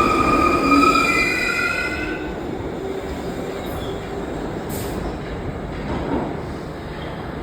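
Subway train wheels squealing with a high, shrill multi-tone screech for about the first two seconds, then the squeal fades and the train runs on with a steady rumble.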